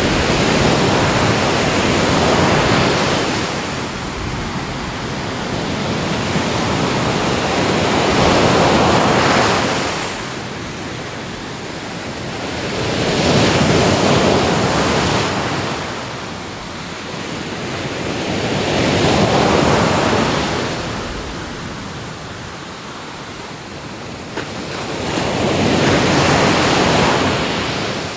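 Ocean surf: waves washing in and drawing back in five slow swells, about one every five to six seconds.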